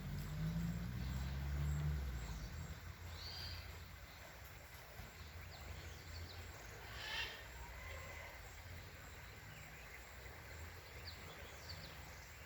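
Outdoor ambience: a low engine rumble fades away over the first two seconds, then a faint steady background with a few short bird chirps.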